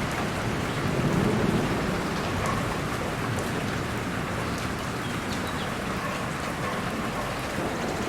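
Steady rain falling on surfaces, with a low rumble of distant thunder swelling about a second in.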